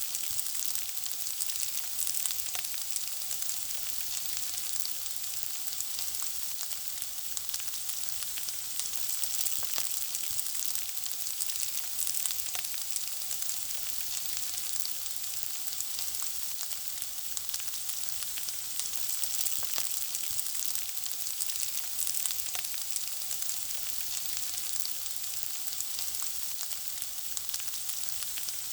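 Food frying in hot oil: a steady sizzle with constant fine crackling and spitting.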